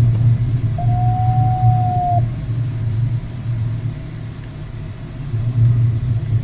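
Steady low rumble of aircraft cockpit noise during the landing approach. About a second in, a single steady beep-like tone is held for just over a second.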